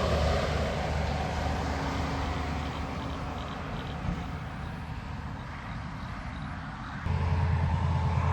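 Heavy truck engine rumbling and fading as the rig goes by. About seven seconds in, a louder, low engine drone cuts in suddenly.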